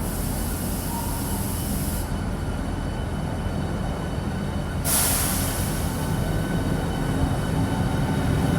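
Electric passenger train running at a station platform: a steady rumble with a faint electric whine. A hiss runs through the first two seconds, and a stronger hiss comes in suddenly about five seconds in as the sound grows louder.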